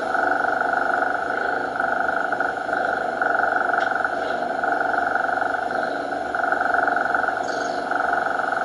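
Cat purring, a steady rhythmic drone that swells and fades with each breath about once a second, over an even background hiss.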